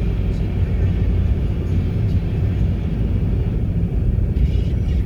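Steady low rumble of a vehicle driving on a snowy road.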